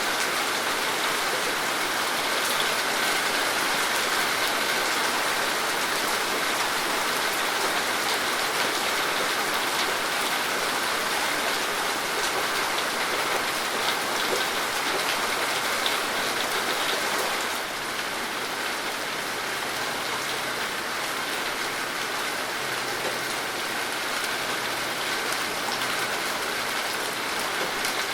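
Steady rain falling, a dense patter of many small drops striking a surface, easing a little about two-thirds of the way through.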